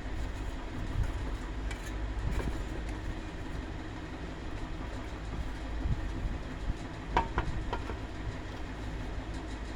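A steady low mechanical rumble and hum with scattered sharp clicks and knocks, a small cluster of them about seven seconds in.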